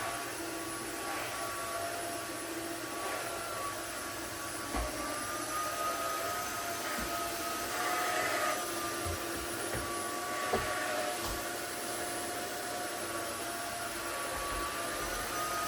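Vacuum cleaner running steadily, its motor whine drifting slightly in pitch as the load changes, with a few light knocks from the cleaning.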